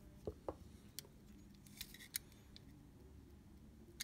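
Faint, scattered small mechanical clicks as the Leica II D's cloth focal-plane shutter is slowly cocked by hand, partway, to check the newly glued curtain tapes.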